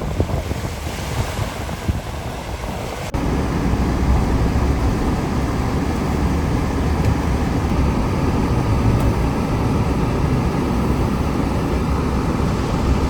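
Wind buffeting the microphone over surf on the shore. About three seconds in, the sound cuts abruptly to a louder, steady low rumble.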